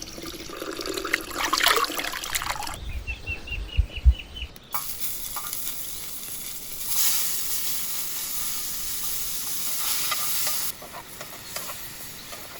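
Food frying in a pan over a gas stove, with stirring and utensil clatter early on, then a steady sizzle from about seven seconds in that cuts off abruptly near the end.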